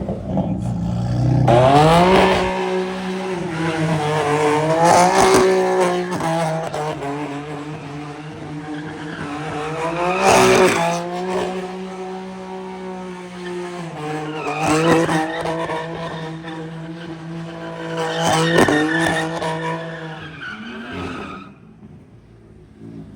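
A car engine held at high, steady revs while spinning, with tyres squealing and skidding. The revs sweep up sharply every few seconds, and the sound dies away near the end.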